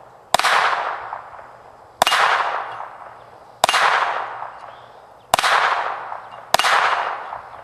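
Five single gunshots from a Ruger SR22 .22 pistol, spaced about one and a half seconds apart. Each crack is followed by a long fading echo.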